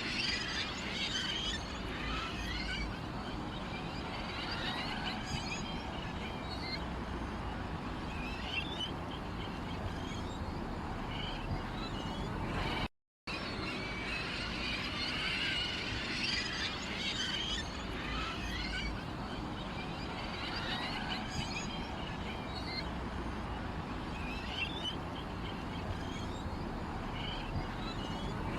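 Many small songbirds chirping and twittering in quick, overlapping calls over a steady low background noise, cut off by a brief moment of silence about halfway through.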